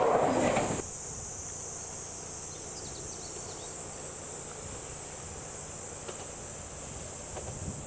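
The last of a passing train's rumble cuts off suddenly under a second in. Insects then keep up a steady, high-pitched buzzing trill.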